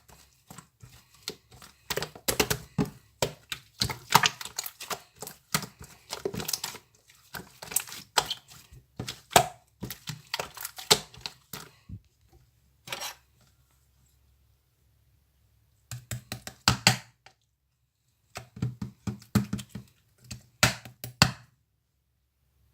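Irregular sharp clicks and knocks, dense for the first half, then in short clusters separated by near-silent pauses.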